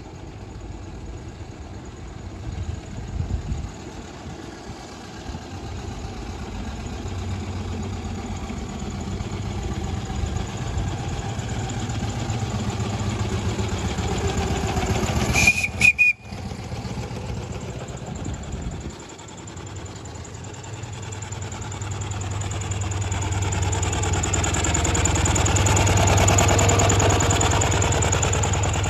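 Miniature steam traction engines running along the road, growing louder toward the end. About halfway through comes one short, high steam-whistle toot.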